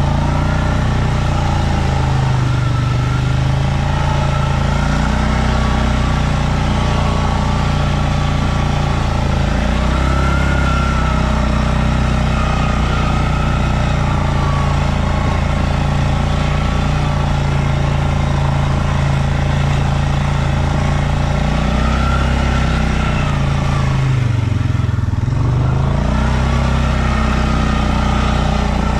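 Stels Leopard 650YL ATV engine running under load while being ridden, its pitch rising and falling with the throttle. About three-quarters of the way through, the revs drop briefly and then pick up again.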